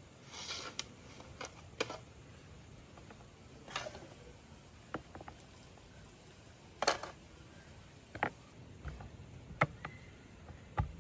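Irregular light clicks, knocks and brief scrapes from objects being handled, about nine over the stretch. The sharpest click comes about two thirds of the way through.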